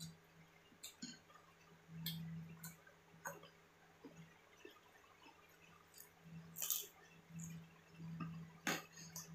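Close-up eating sounds: wet chewing and mouth smacks of someone eating fried fritters, broken by a few sharp clicks, the loudest about two-thirds of the way in and near the end.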